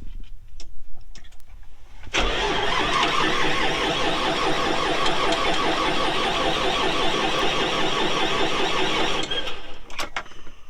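Tractor engine cranking on its starter for about seven seconds without catching, starting about two seconds in and cutting off near the end. It is a hard cold start: the tractor starts badly in winter and its fuel system is sucking air.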